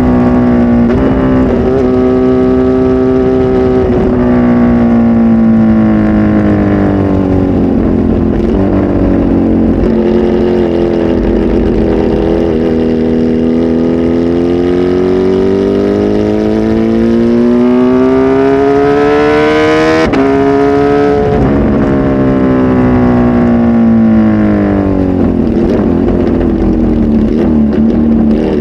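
Kawasaki Z H2 SE's supercharged inline-four engine, flash tuned and fitted with a full exhaust, running loudly. Its pitch sinks slowly for about ten seconds, then climbs steadily until it drops sharply about twenty seconds in, sinks again and steps back up near the end.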